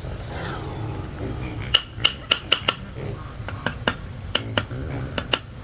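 About a dozen sharp, ringing metallic taps at uneven intervals, starting nearly two seconds in.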